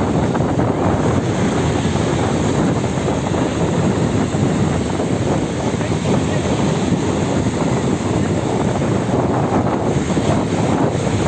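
Steady wind buffeting the microphone over the wash of sea water.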